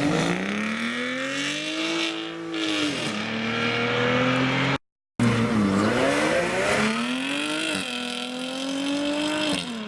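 A sports car engine accelerating hard: its pitch climbs, drops sharply at an upshift, then holds in the next gear. A sudden half-second silence near the middle, then the same pattern again.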